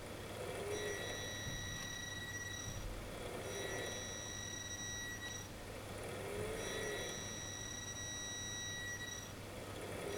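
The Gry Maritha's engine running with a steady low hum. Over it, a high, steady, shrill tone repeatedly sounds for one to two seconds at a time with short breaks in between.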